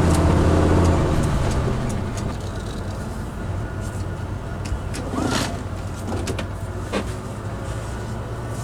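Class A motorhome engine running with a steady low drone that eases off after about a second and a half as it slows. A few knocks and rattles sound over it.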